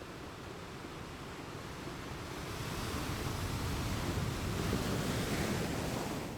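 Ocean surf on a beach: a wave builds up over a few seconds, breaks in a wide rushing hiss, and eases off near the end.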